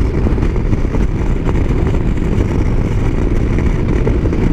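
Motorcycle riding at highway speed: a steady, loud rush of wind on the microphone mixed with engine and road noise.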